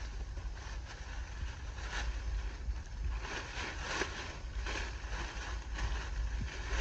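Heavy rain in a forest: steady wet noise with many irregular taps and crackles, over a low rumble of wind on the microphone.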